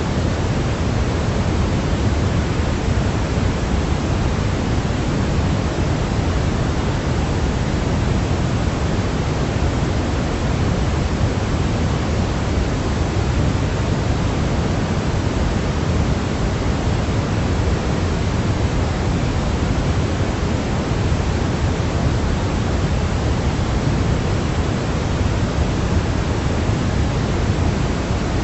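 Steady pink-style noise for sleep, an even hiss weighted toward the low end, unchanging throughout.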